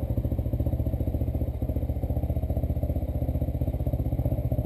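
Dirt bike engine idling steadily, with an even, rapid pulse.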